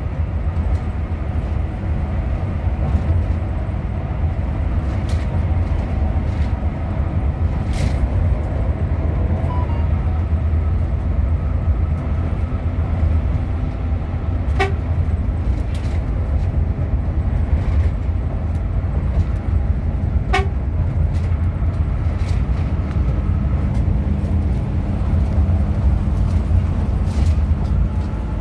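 Hino RM 280-powered coach running along the road with a steady low engine and road rumble. Two short horn toots sound, about halfway through and again about six seconds later.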